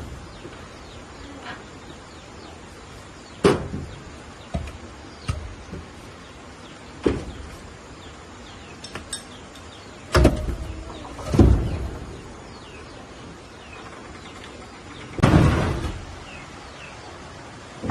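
Firewood being gathered: irregular sharp cracks and knocks of wood, several seconds apart, with birds chirping faintly.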